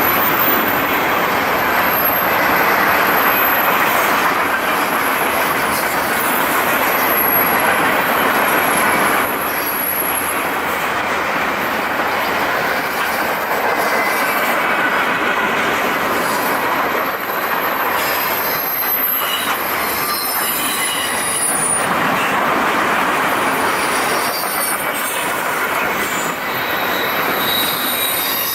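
Freight cars of a Wisconsin & Southern train rolling steadily past, with a continuous rumble of wheels on rail and thin, high-pitched wheel squeal throughout.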